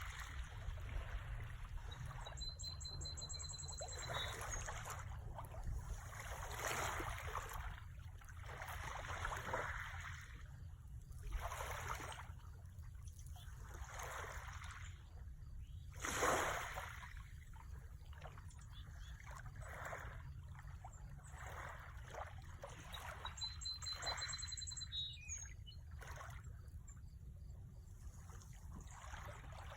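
Ocean waves washing in and splashing, a new wash every couple of seconds, with one louder splash about sixteen seconds in, over a steady low rumble.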